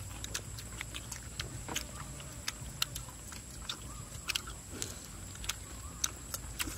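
People chewing food close to the microphone: irregular sharp mouth clicks, a few each second.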